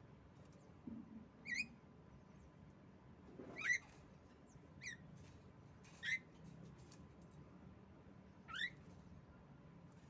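Female Javan myna (jalak kebo) giving short, squeaky calls that rise in pitch, five in all, one to two and a half seconds apart.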